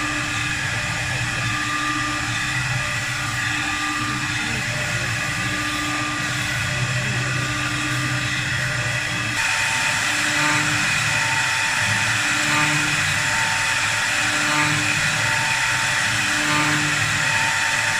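CNC wood-turning lathe running: steady machine noise with humming tones that swell and fade in turn, growing louder and brighter about nine seconds in.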